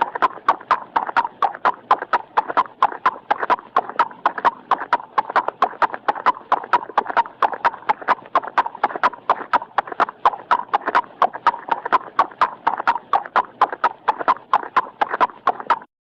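Horse hooves clip-clopping in a steady, fast rhythm of about four to five hoofbeats a second, cutting off abruptly near the end.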